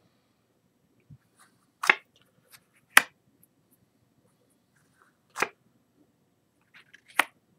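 Playing cards being turned over and laid on a table: four sharp snaps a second or two apart, with a few fainter ticks between.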